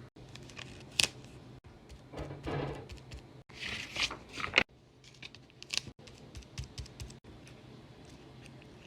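Paper crafts being handled: short stretches of rustling and crinkling, with a few sharp clicks, the loudest about a second in.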